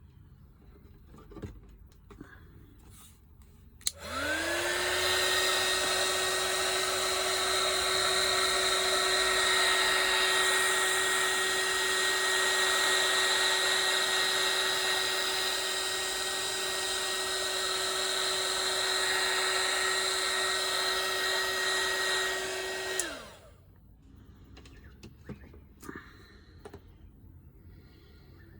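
Hairdryer switched on about four seconds in: its motor whine rises quickly to a steady pitch over the rush of air and runs steadily for about nineteen seconds, then switches off and winds down.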